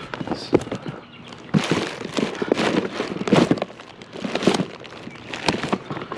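Irregular rustling and clattering of discarded household items being handled and rummaged through by hand, in a quick run of short knocks and crinkles.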